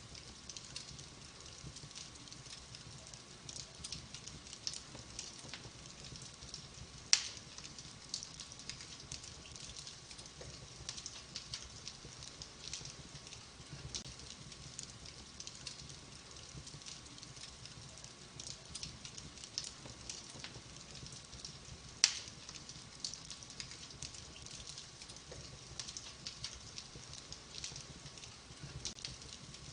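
Wood fire in a fireplace crackling with many small snaps, and two much louder pops, one about a quarter of the way in and one about three quarters through.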